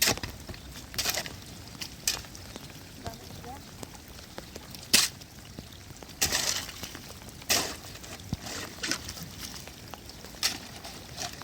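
Irregular sharp cracks and short swishing snaps, about eight of them with the loudest about five seconds in, over a low steady hiss.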